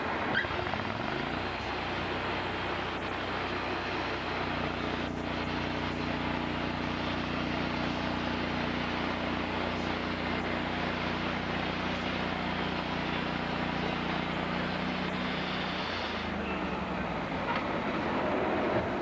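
A sawmill engine revs up over the first few seconds, runs steadily under load, then drops back down about three-quarters of the way through, over a continuous rushing noise.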